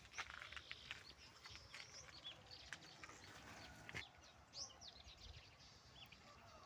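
Faint birds chirping: scattered short chirps and whistles, with a few light clicks.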